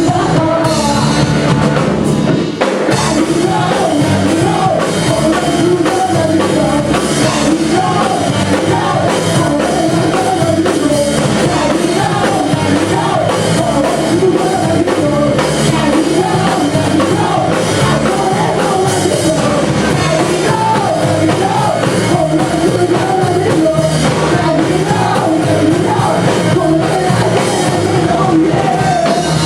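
A live rock band playing with drums, electric guitars and bass while a vocalist sings.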